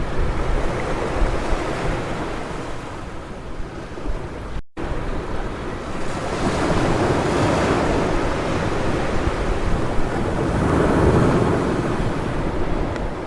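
Ocean surf breaking and washing up on a beach, a steady rushing with two waves swelling in, one about six seconds in and one about ten seconds in. The sound cuts out for an instant just before five seconds in.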